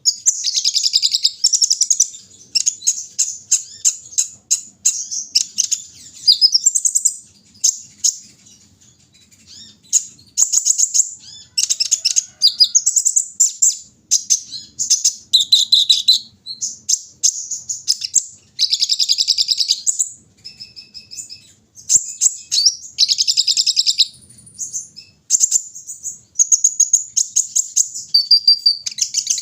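Kolibri ninja, a sunbird, singing: fast, high, twittering phrases of rapid chirps and trills lasting a second or two each, repeated with short pauses.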